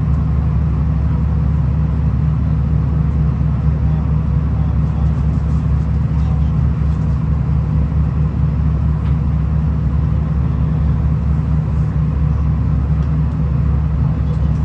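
V/Line VLocity diesel railcar running along the line, a steady low rumble with a constant hum, heard from inside the carriage.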